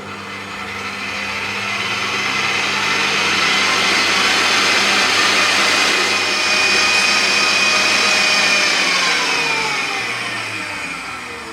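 Electric hand mixer beating eggs, a steady motor whine with whisking. It grows louder over the first few seconds, and near the end its pitch falls as it slows.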